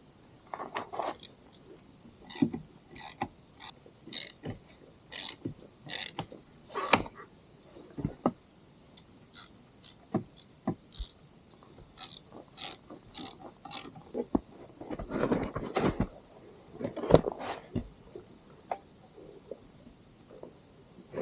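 Chainsaw mill being set up by hand: irregular clicks, knocks and a few short scrapes as its parts and spacers are handled and adjusted, with a louder scraping stretch about fifteen seconds in.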